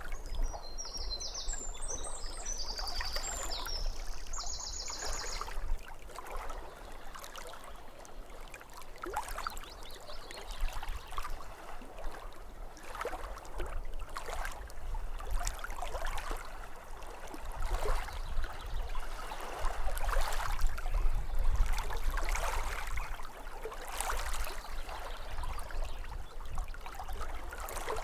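Small waves lapping against a lake shore in irregular splashes. A bird sings a short run of high-pitched notes during the first few seconds.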